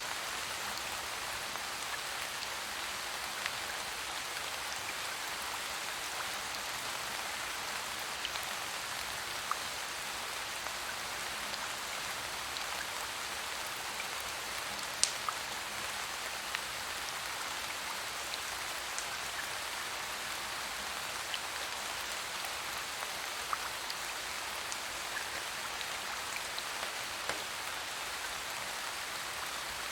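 Steady rain falling, an even hiss with scattered sharp ticks throughout, the loudest one about halfway through.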